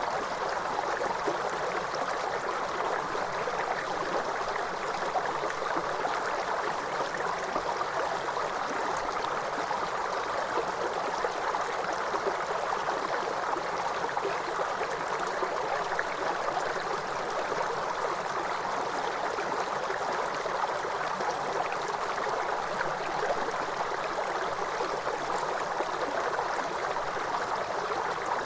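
Waterfall: water rushing and splashing in a steady, unbroken hiss.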